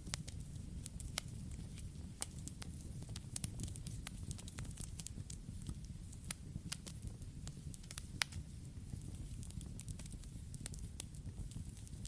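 Campfire burning: a steady low rumble of flames with irregular sharp crackles and pops from the burning wood, one louder pop a little after eight seconds in.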